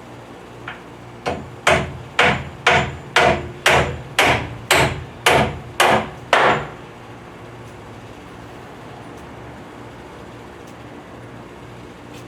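Hammer driving a nail into wooden wall framing: one light tap, then about eleven steady blows at about two a second, stopping a little over six seconds in.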